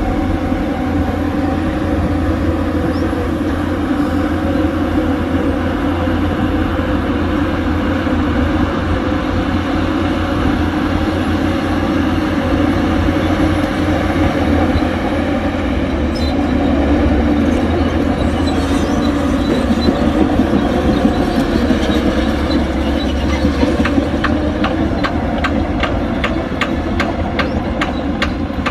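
Heavy diesel earthmoving machinery running steadily, an engine drone that swells a little past the middle. Near the end a fast, regular clatter of about three to four clicks a second joins in.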